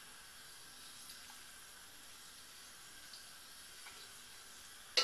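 Oil heating in a wok on the stove, a faint steady hiss with a few light ticks, then a sharp clatter right at the end.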